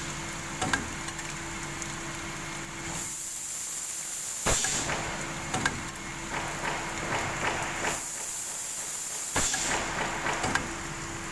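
Heat-treatment machine running with a steady hum. A sharp hiss comes about every five seconds, each followed by a spell of clattering clicks, like a repeating work cycle.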